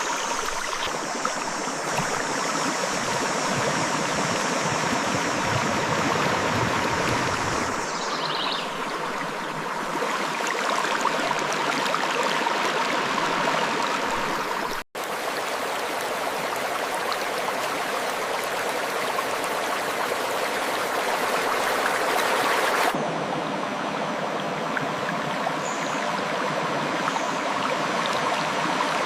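Steady rushing of a river flowing over rocks, with a momentary cut-out about halfway through.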